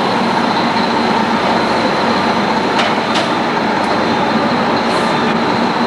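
Steady, loud running noise of a vehicle engine, with two faint clicks about three seconds in.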